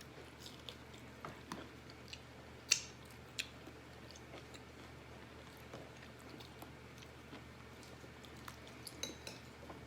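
A person chewing food with soft, wet mouth noises, with a couple of sharper clicks about three seconds in.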